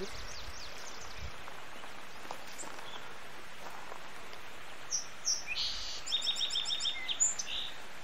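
A small songbird sings a short phrase about five seconds in: two high notes, a brief buzz, then a quick run of repeated notes, over a steady faint hiss.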